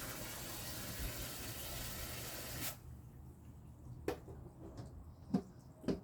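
Water running steadily into a compost tea bucket, cut off abruptly under three seconds in; then three short knocks.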